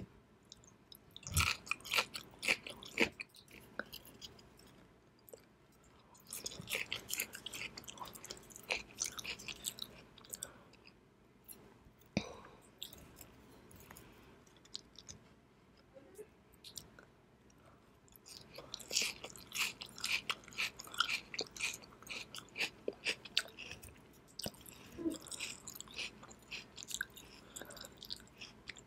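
Close-miked chewing and wet mouth sounds of someone eating pickled ginger and raw sashimi, with clicks and smacks. The chewing comes in three bouts, with quieter stretches between them.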